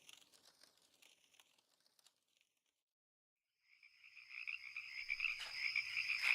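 Near silence for about three and a half seconds, then a night-time chorus of frogs fades in and runs on steadily as a backyard ambience sound effect.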